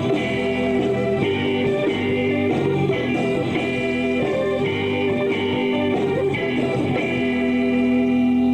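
Live band playing an instrumental passage led by electric guitar. Near the end a guitar note is held and rings on.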